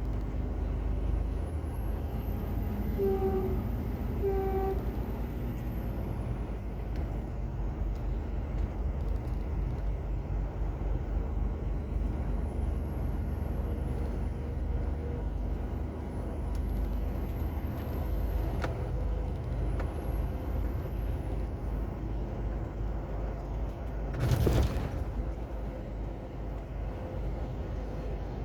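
Semi-truck's diesel engine running with a steady low rumble. Two short beeps come about three and four and a half seconds in. A short burst of air hiss, typical of the truck's air brakes, comes near the end.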